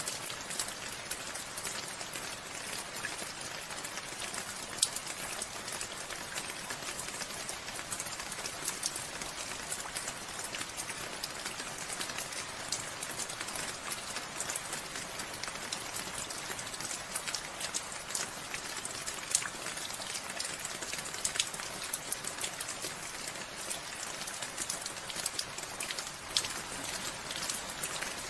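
Steady rain falling, a dense even hiss with many individual drops heard as sharp ticks scattered throughout.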